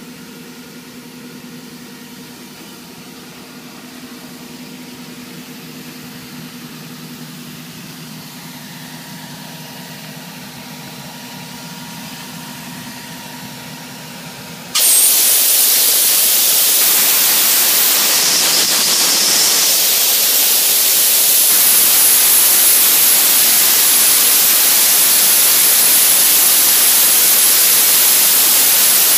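A machine hums steadily at first; about halfway through, the soda blasting nozzle opens and a loud, steady hiss of compressed air and blasting media starts suddenly, with a thin high whistle on top, as the bottom paint is blasted off a steel boat hull.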